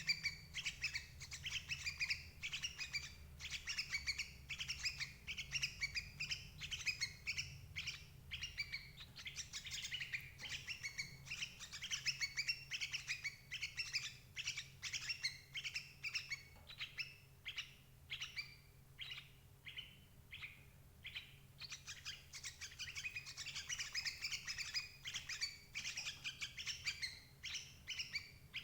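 Yellow-vented bulbul (merbah cerukcuk) calling: a fast, continuous run of bubbly chirps. The calls thin out to separate chirps a little past the middle, then pick up again.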